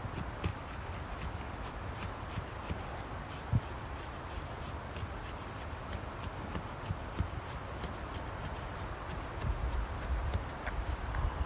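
British Army survival knife shaving thin curls off a stick to make feather sticks: repeated short scraping strokes, with a low wind rumble on the microphone.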